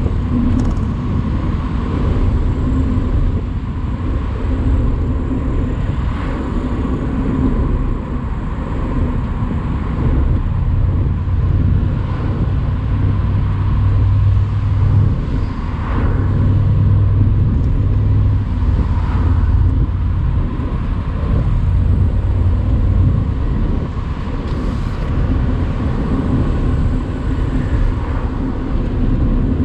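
Mercedes-AMG C63 cabriolet's 4.0-litre twin-turbo V8 running under steady part-throttle at road speed, mixed with tyre and road noise, heard with the roof open. The engine note swells a little about halfway through.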